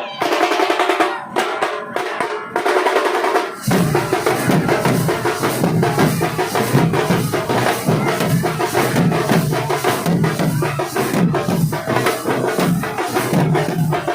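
Nasik dhol band drumming: rapid high-pitched rolls on the tasha drums, then, about three and a half seconds in, the big dhol drums join with a deep, driving beat.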